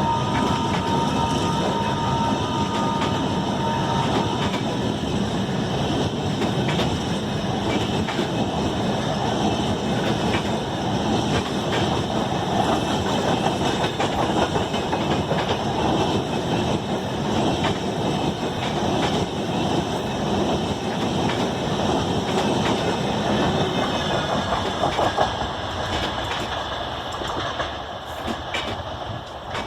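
Rajdhani Express passenger train running on the track: a steady noise of wheels on rail with faint ticks, which drops off near the end. A faint high steady tone sounds over it for the first few seconds.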